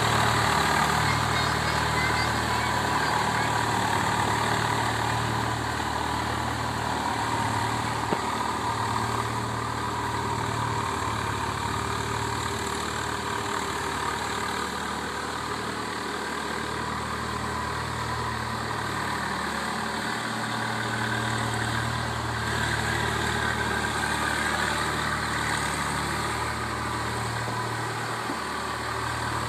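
Swaraj 744 FE tractor's three-cylinder diesel engine running steadily while working a rotavator in puddled mud. Its low drone fades and swells a few times.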